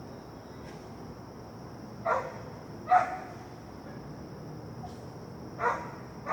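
A dog barking in single, spaced barks: two about a second apart, a third a few seconds later, and another right at the end. A faint steady high-pitched whine runs underneath.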